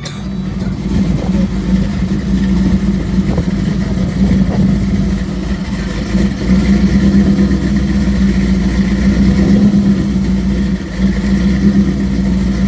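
A drag-racing vehicle's engine, most likely a race truck's, running at a loud, steady idle.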